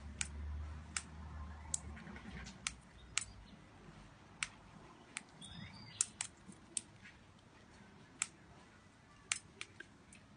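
Irregular sharp clicks and cracks, roughly two a second, from two wild birds feeding, with a faint chirp about halfway through.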